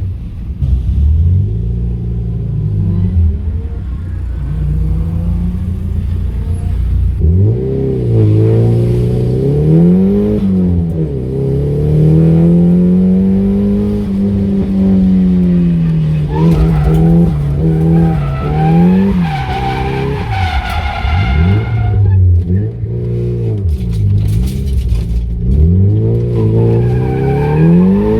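Drift car engine revving hard, its pitch climbing and dropping again and again as the driver works the throttle through the slides. Tyres squeal for several seconds about two-thirds of the way through, and briefly again near the end.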